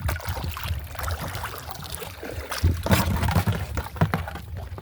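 Water splashing and sloshing, with irregular knocks and clicks, loudest about three seconds in.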